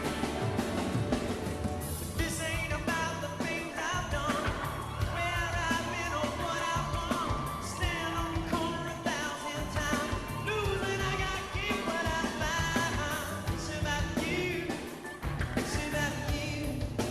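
Live rock band performance: a singing voice over a full band with steady bass and drums.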